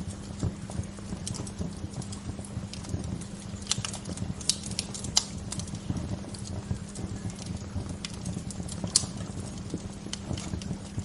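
Wood fire crackling: irregular sharp pops and snaps over a steady low rumble of burning, with a few louder snaps scattered through.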